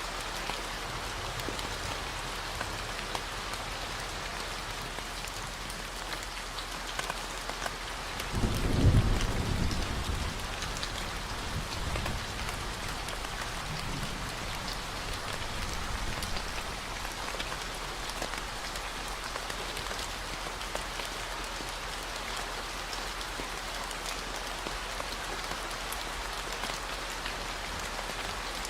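Steady rainfall with a constant low 40 Hz gamma-wave hum beneath it. About eight seconds in, a roll of thunder rumbles and fades away over several seconds.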